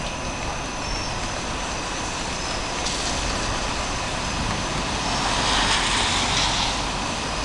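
Steady outdoor background hiss that swells louder about five seconds in and eases off near the end.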